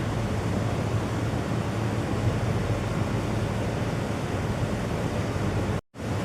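Steady low rushing noise with no distinct calls or tones, cut off abruptly for a split second near the end.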